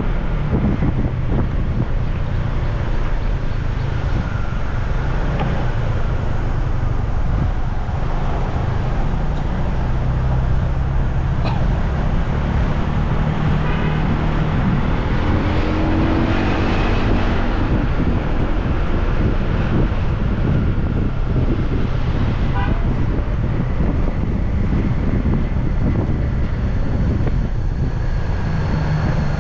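Motorbike riding through road traffic: a steady engine hum under constant wind and road noise, with other vehicles passing and a couple of short horn toots.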